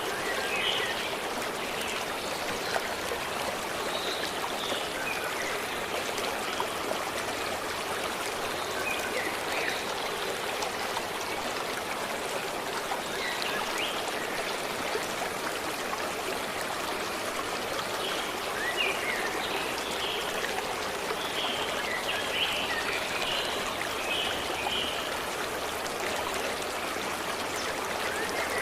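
A stream running steadily over rocks, with birds chirping intermittently, most often in the latter part.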